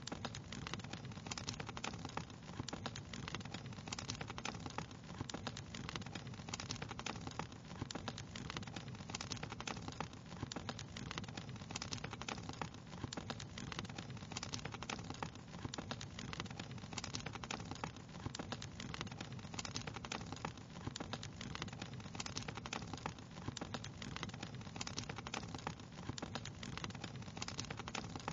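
Wood fire crackling: a continuous, dense scatter of small pops and snaps over a steady low rush.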